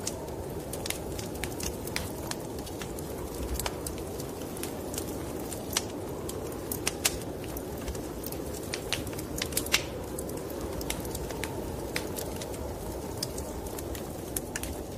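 Wood fire crackling in a fireplace, with frequent irregular sharp pops, over a steady low rushing of snowstorm wind.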